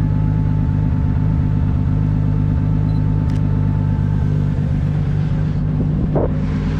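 Nissan Silvia S15 drift car engine idling steadily with a low, loud rumble, holding an even pitch with no revving.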